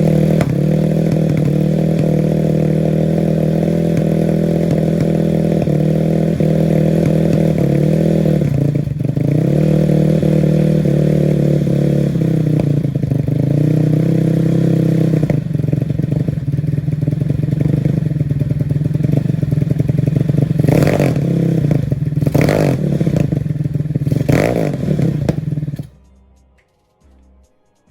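Honda Grom mini bike engine with a racing exhaust idling on a cold start, its revs sagging twice and stumbling with a few pops before it stalls suddenly near the end. The owner puts the stalling down to fuel problems: a clogging fuel filter and a tank not treated for winter.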